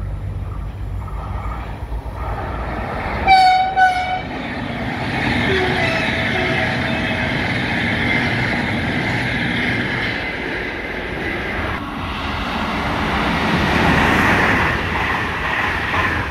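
CP Class 4000 Alfa Pendular electric tilting train sounding two short horn blasts about three seconds in, the first longer than the second. It then passes at speed, its wheels and air rush rising steadily to their loudest near the end.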